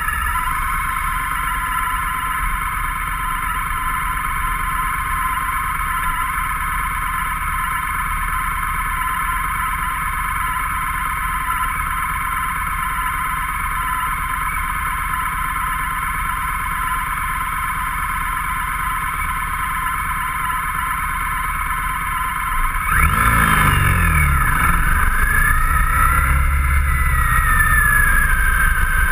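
Motorcycle engine idling steadily, then pulling away and picking up speed about three-quarters of the way through.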